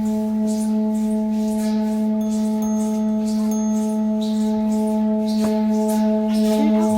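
A sacred shrine gong humming a sustained low drone with steady ringing overtones, like a singing bowl. Over the hum is a soft swishing that repeats about twice a second.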